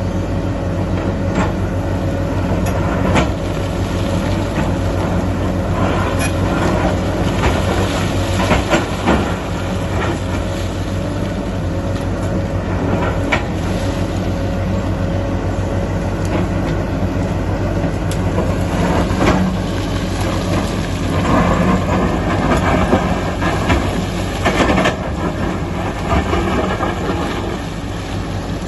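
Heavy excavator's diesel engine running steadily under load, with repeated clanks and scrapes from the bucket and steel working rock and earth; the clatter is densest about a third of the way in and again near three-quarters.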